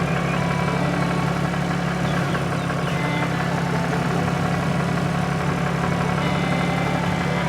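Tractor engine running steadily at idle, an even low drone with no change in speed, cutting off abruptly at the end.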